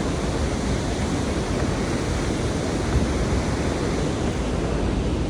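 Steady rush of whitewater from a waterfall and river rapids with a big standing wave.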